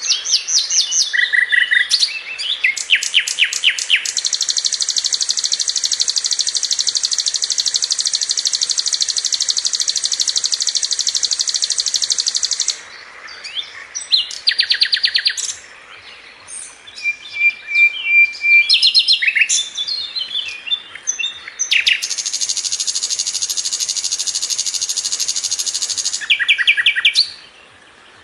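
Sikatan londo (brown-chested jungle flycatcher) singing a fast, tight song: quick runs of repeated high notes and short phrases, broken by two long, rapid trills, the first about eight seconds long, the second about four seconds near the end.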